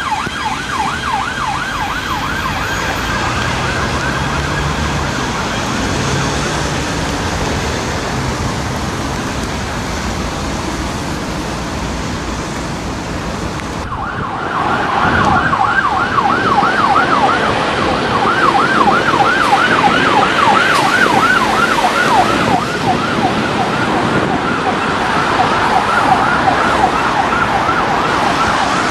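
Emergency vehicle siren on a fast rising-and-falling yelp, fading within the first few seconds and leaving traffic noise. About 14 seconds in, after a cut, another yelp siren comes in louder over passing traffic.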